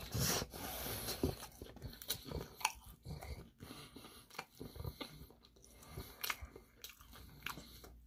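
Crisp crunching and chewing of Korean fried chicken, close to the microphone. Loud crunches come in the first second or so, then lighter crackling chews.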